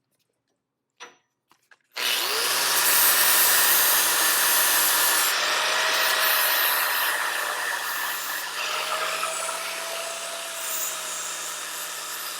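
Arc welding on steel: a loud, steady crackling hiss with a low hum under it, starting suddenly about two seconds in after a few faint clicks and running as one long continuous weld bead.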